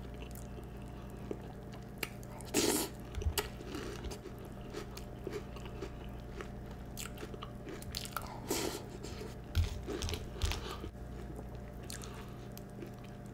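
A person chewing and biting crunchy Peeps cereal close to the microphone: irregular crunches, with a few louder ones.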